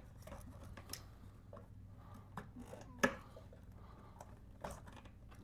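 Faint, scattered clicks and light knocks of a motorcycle battery and its box being handled as the battery is fitted, with one sharper knock about three seconds in.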